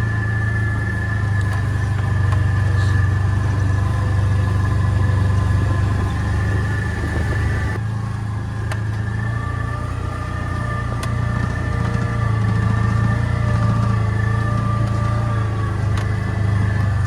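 Vehicle engine running steadily under a light load, dipping slightly in level about halfway through.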